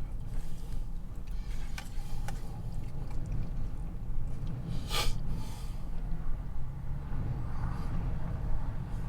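Strong wind buffeting the truck and its camper shell, a steady low rumble, with scattered small clicks and one sharp knock about five seconds in.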